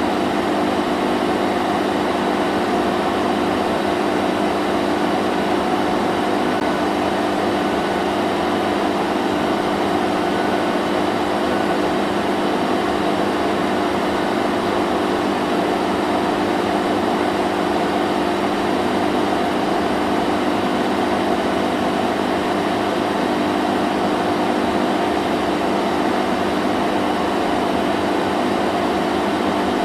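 Vacuum cleaner running continuously, a steady motor hum with several even tones over a broad rushing hiss of air, unchanging in level.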